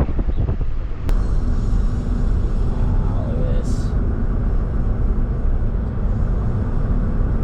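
A loud, steady low rumble outdoors, with no clear rhythm or pitch.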